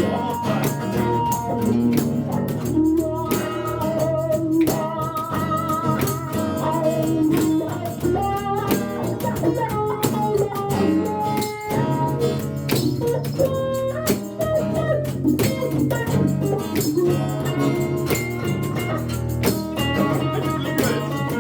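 Live blues instrumental break: strummed acoustic guitar keeps a steady rhythm while a blues harmonica plays a wavering lead melody over it.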